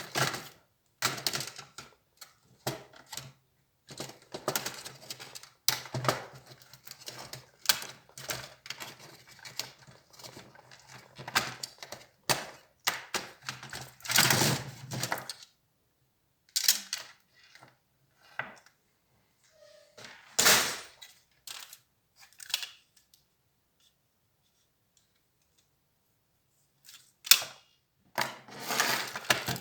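Parts of an HP Compaq 6910p laptop being handled during disassembly: irregular clicks, taps and rattles of hard plastic and small metal pieces. There is a quiet spell of a few seconds past the middle, then the clicking resumes near the end.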